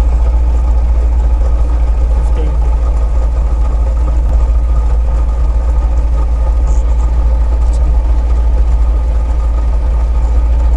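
Rally car engine idling steadily with a strong low drone, heard from inside the stripped cabin while the car sits stationary.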